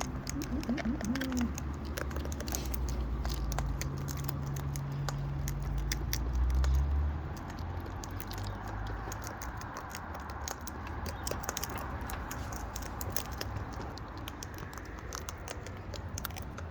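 Wild parrots feeding from a seed bucket: a run of small irregular clicks and crunches from beaks cracking seed and claws on the bucket. A low rumble underneath drops away about seven seconds in.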